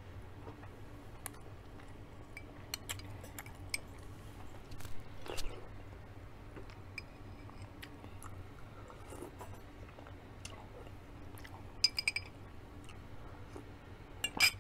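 Chewing and mouth sounds of someone eating a mouthful of soup and rice, with scattered small clicks. A spoon clinks against the dish a few times about twelve seconds in, and once more sharply near the end.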